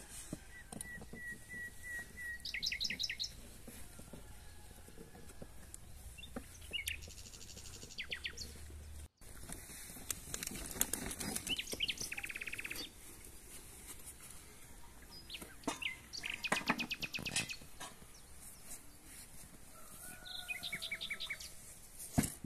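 Small songbirds chirping and singing short trills every few seconds, with faint clicks and knocks in between and one sharp knock near the end.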